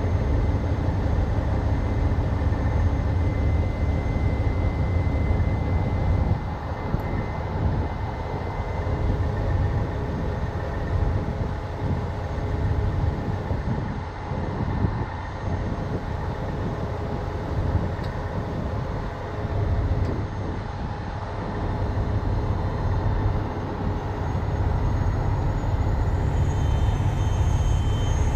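Heavy truck's diesel engine running, a steady deep rumble that eases off somewhat in the middle and comes back up near the end.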